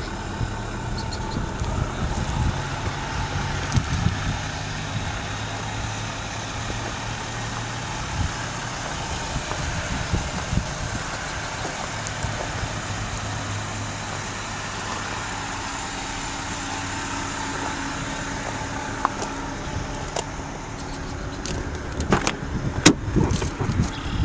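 1998 Nissan Altima's 2.4-litre four-cylinder engine idling steadily, with a few sharp clicks near the end.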